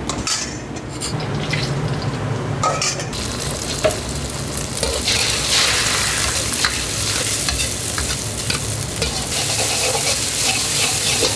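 Beaten egg sizzling and frying in hot oil in a wok for egg fried rice, with a metal ladle scraping and knocking against the wok as it is stirred. The sizzle grows louder about three seconds in.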